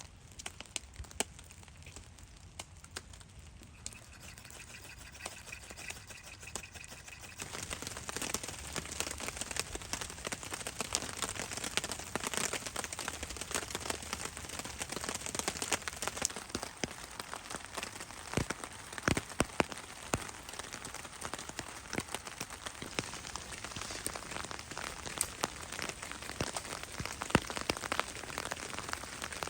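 Rain falling on a plastic sheet shelter, light scattered drops at first, then much heavier about seven seconds in: a dense patter full of sharp drop ticks.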